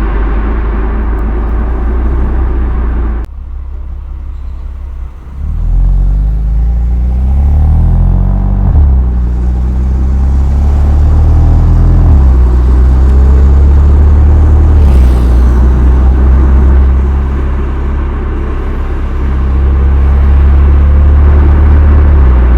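BMW M2 Competition exhaust through the stock muffler: a steady rumble, a quieter dip about three seconds in, then the revs climb and fall back twice before the engine holds a steady drone. The recording is overloaded and sounds clipped.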